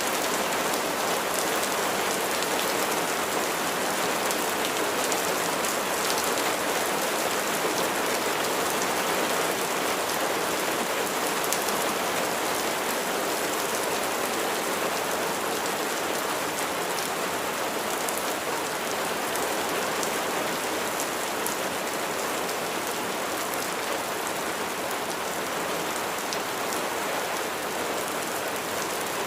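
Steady rain falling and pattering on surfaces, an even hiss with many small drop ticks throughout.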